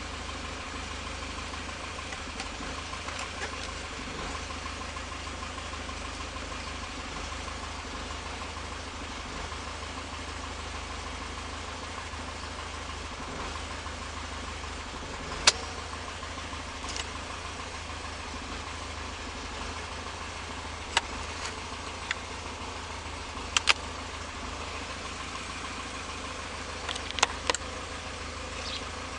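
1973 Opel GT's four-cylinder engine idling steadily after a cold start, with a few sharp clicks now and then.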